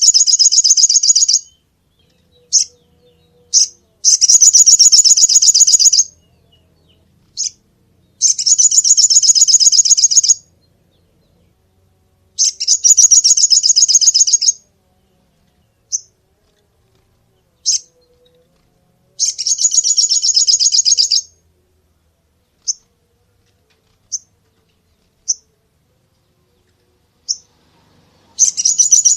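A small songbird singing in bursts: a high, rapid trill of about two seconds repeats every few seconds, with single short high chips in the gaps.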